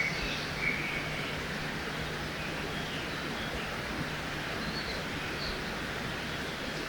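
Forest ambience by a river: a steady rush of flowing water, with a few short bird chirps scattered through it.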